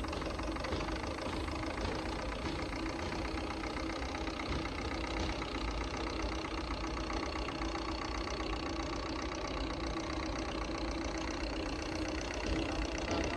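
An engine idling steadily, an even running sound with a constant low hum.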